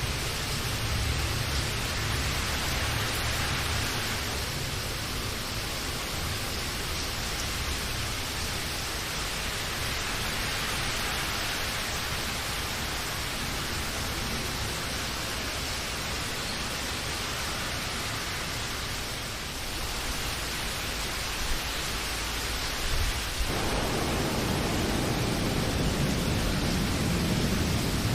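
Steady rain, an even hiss of falling drops. A deeper low rumble joins in about three-quarters of the way through.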